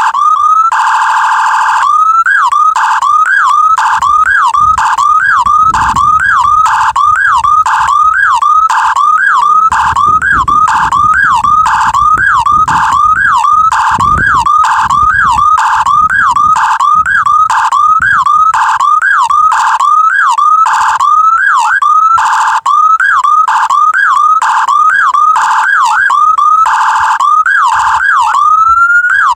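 Loud electronic siren sounding in quick rising sweeps, about two a second, switching now and then to a brief steady tone.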